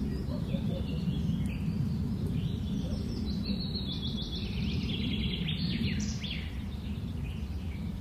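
Birds chirping over a steady low rumble of outdoor background noise, with a run of quick, repeated calls in the middle.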